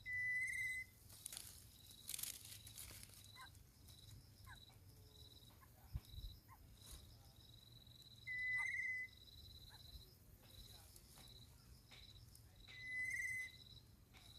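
Crickets chirping in a steady, even pulse, with three loud, flat, whistle-like tones of under a second each: one at the start, one about eight seconds in and one near the end.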